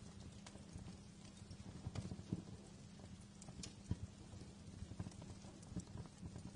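Wood fire in a fireplace crackling: irregular sharp snaps and pops over a low steady rumble, the loudest pops about two and four seconds in.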